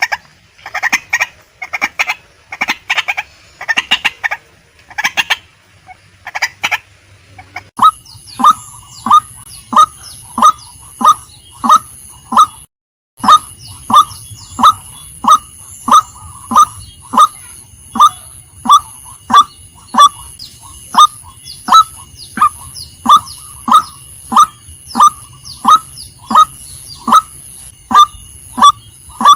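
Female white-breasted waterhen calling. For the first seven seconds or so it gives a ragged run of harsh calls. Then, after a sudden change in the recording, it settles into an even string of loud calls about one every three-quarters of a second, broken once by a short dropout.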